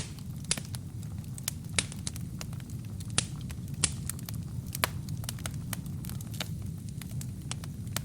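Wood fire burning: a steady low rumble of flames with irregular sharp crackles and pops from the burning logs, a few of them louder.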